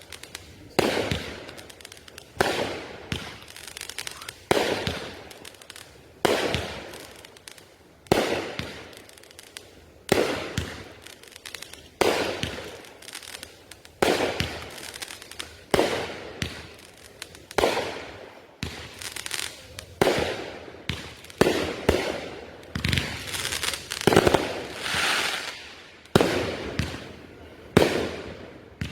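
Consumer aerial fireworks firing a long run of sharp bursts, each trailing off in an echo. They come about one a second at first and faster in the second half.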